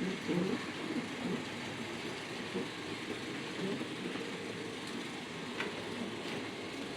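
Märklin H0 scale model of a V 80 diesel locomotive running on the track, a steady motor and wheel rumble with a couple of faint clicks in the second half.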